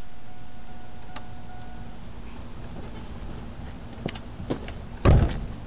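Cavalier Z24's 2.4-litre four-cylinder engine, fitted with a Ractive muffler, idling quietly through the exhaust after a rev, its low rumble slowly fading. A few clicks come in about four seconds in, and a single thump about five seconds in is the loudest sound.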